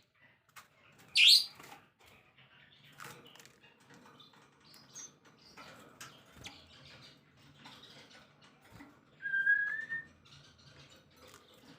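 Songbird calls: a loud, sharp high note about a second in, soft scattered chips and ticks, and a clear whistled note lasting about a second, rising slightly, near the end.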